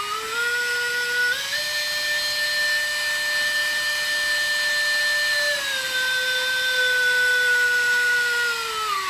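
Small electric motor spinning the LEGO model's wind-turbine propeller through rubber bands: a steady whine that steps up in pitch about a second and a half in, drops back a few seconds later, and winds down near the end.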